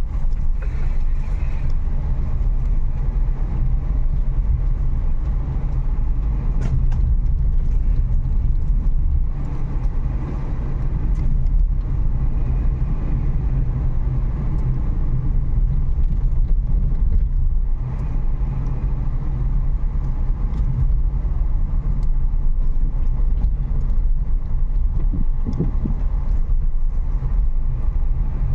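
Renault Kiger driving, heard from inside the car: a steady engine and road rumble with a few light knocks.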